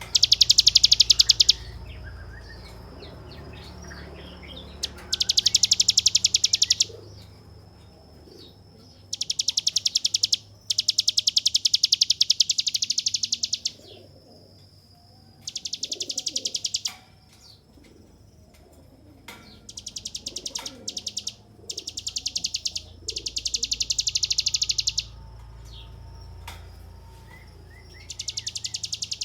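Ciblek gunung, a prinia, singing its 'ngebren' song. It sings bursts of very fast, high repeated notes that merge into a buzzing trill, each lasting one to three seconds, about ten times with short pauses between. A thin, steady high whistle carries on between the bursts.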